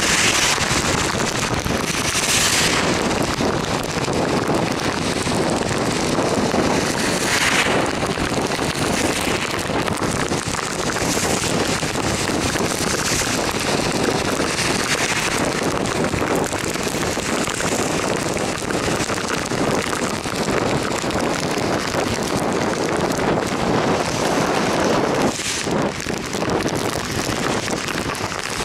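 Heavy rain with wind rushing over the microphone of a vehicle moving along a flooded road, with tyre hiss on the wet surface; oncoming cars swish past through the spray several times.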